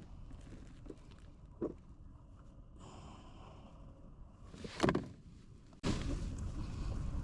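Two dull knocks, like gear bumping a plastic fishing kayak, over low background noise. About six seconds in, a steady rush of wind noise on the microphone starts suddenly.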